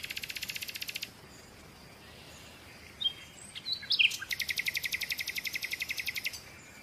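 Small birds calling: a fast, even rattling trill, about a second long at the start and about two seconds long later, with a few short high chirps between.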